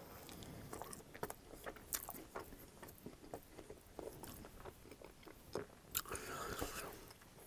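Close-miked chewing of a bite of pepperoni pizza: soft, repeated wet clicks and small crunches of the crust. About six seconds in comes a longer hiss-like mouth sound.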